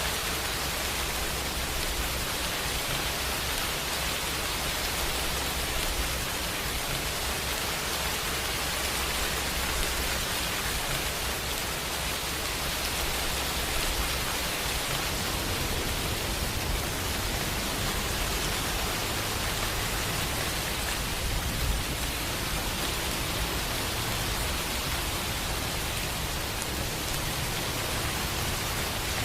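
Steady rain falling, an even hiss with no breaks or strikes.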